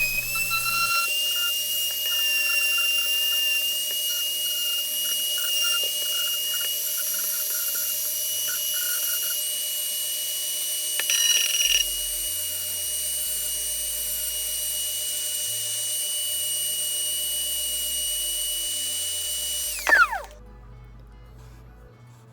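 Handheld power grinder running at a steady high whine while it smooths the rough, knife-sawn cut end of a pipe. It briefly gets louder about eleven seconds in, then winds down in pitch and stops near the end.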